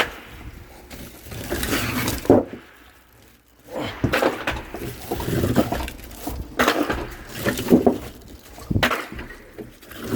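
Split firewood being handled and stacked: pieces of wood knocking and clattering against each other in irregular bursts, with a short lull about three seconds in.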